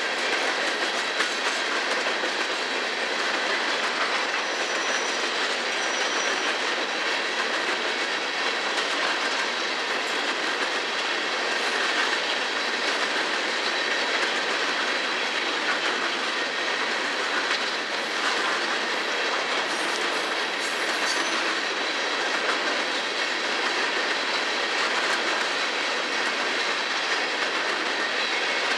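Empty coal cars of a freight train rolling past at steady speed: continuous wheel-on-rail noise with clickety-clack of the wheels over the track. A brief faint high squeal sounds about five seconds in.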